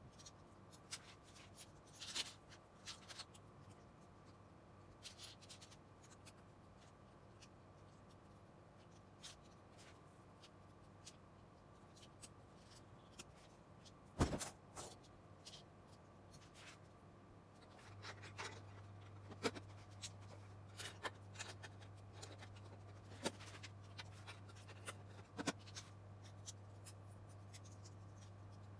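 Small plastic LEGO pieces being handled and pressed together: light scattered clicks and rustles, with one louder click about halfway through.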